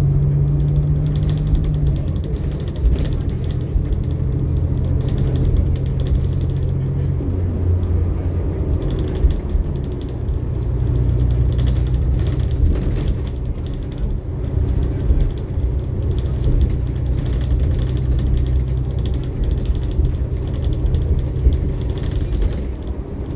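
Cummins-Westport ISL-G natural-gas engine of a New Flyer XN60 articulated bus running, its note stepping down twice in the first several seconds and climbing again about ten seconds in. Short rattles and clicks come through a few times over the engine.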